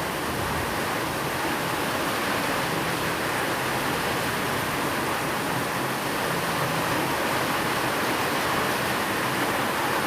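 Steady rain falling outside a house, a constant even hiss, mixed with white noise and a faint low steady tone of binaural beats underneath.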